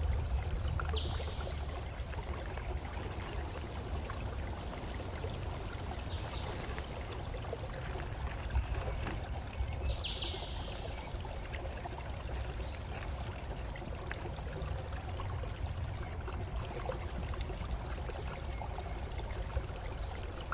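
Steady running water, like a stream or small waterfall, with a few short high chirps scattered through: about a second in, at around ten seconds and at around fifteen seconds.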